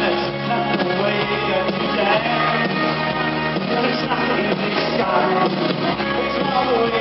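Live new wave band playing a song, a full band mix with a melody line over a steady accompaniment.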